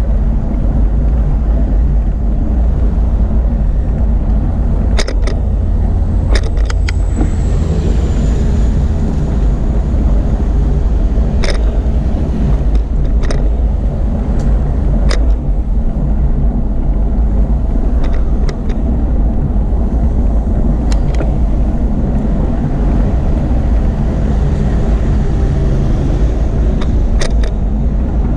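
Steady low wind and road rumble from a bicycle ride, with sharp rattling clicks every second or two as the bike runs over the path.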